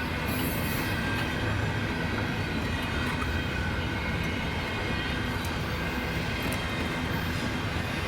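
Railcars rolling past on the track with a steady rumble. Faint high wheel squeal is held through it, and a few sharp clicks come from the wheels over rail joints.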